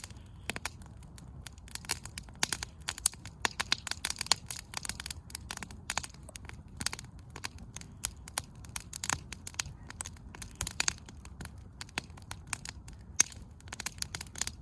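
Wood campfire burning in a fire bowl: firewood crackling and popping in sharp irregular snaps over a low steady rumble of the flames.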